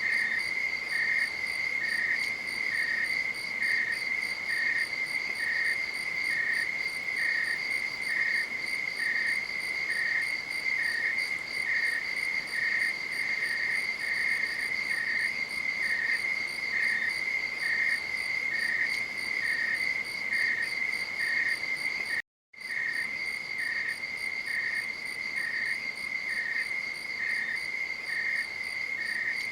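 Crickets singing at night: a steady, unbroken high trill, with a second, slightly lower chirp repeating about once a second. The whole sound cuts out for a split second about 22 seconds in, then carries on unchanged.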